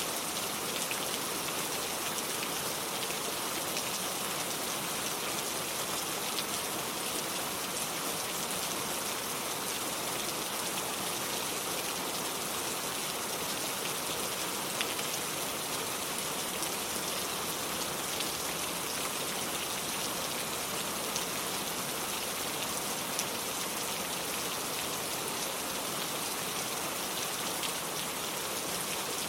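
Steady rain: an even hiss of many drops, with a few sharper single drop hits standing out now and then.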